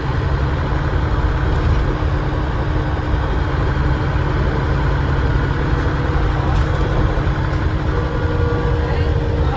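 Dennis Trident double-decker bus's diesel engine running as the bus drives, heard from inside as a steady low rumble. A thin whine comes in about eight seconds in.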